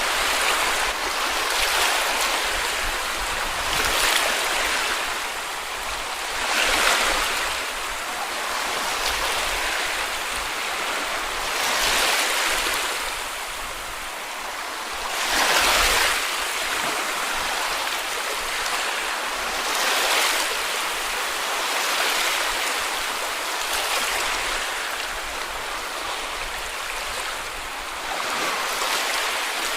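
Small sea waves washing onto a beach: a continuous hiss of surf that swells with each wave every few seconds, the strongest surge about halfway through.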